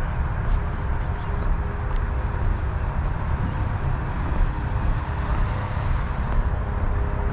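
Steady low outdoor rumble, with a faint hum of road traffic.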